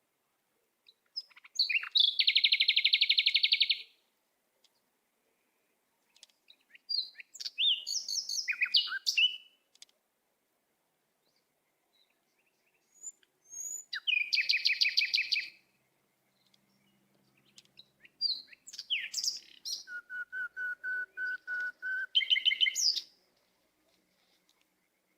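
A small bird singing in four bouts of rapid trills and short chirped phrases, with a few seconds of silence between bouts.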